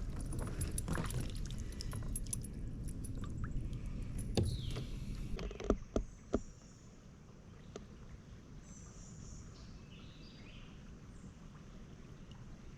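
Kayak handling noise: low rumbling and small clicks from moving about in the boat, then a few sharp knocks about six seconds in. After that it goes quieter, with faint high chirps in the background.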